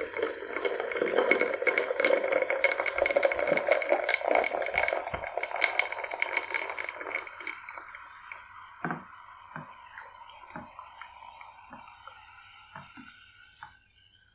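Cola being poured into a glass, foaming with a dense crackling fizz. The fizz thins out and fades over the second half, leaving scattered soft pops.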